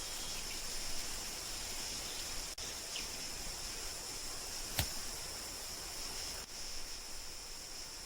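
Steady, high insect chorus of a natural outdoor ambience, with a single sharp click about five seconds in.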